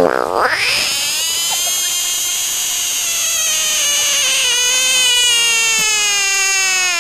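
A large frog's distress scream: one long high cry held for about seven seconds, its pitch sinking slowly and dropping away at the end.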